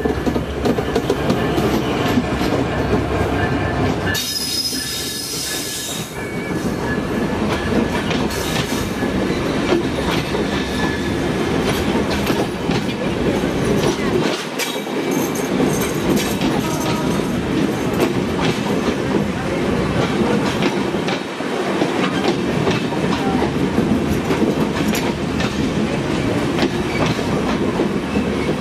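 A diesel locomotive runs past close by on the next track, its engine rumbling, followed by a long rake of passenger coaches rolling past with rapid clickety-clack from the wheels over rail joints. A brief high wheel squeal comes about four seconds in.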